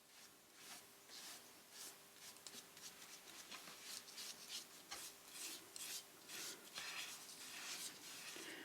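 Faint, irregular rubbing strokes as a generous coat of decoupage medium is spread and smoothed over glued paper. The strokes grow a little louder toward the end.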